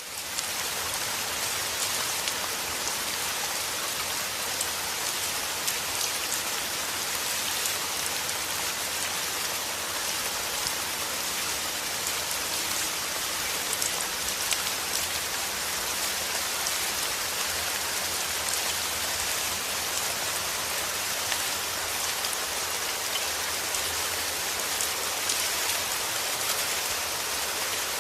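Steady rain falling, an even hiss with a fine patter of drops that holds at one level throughout.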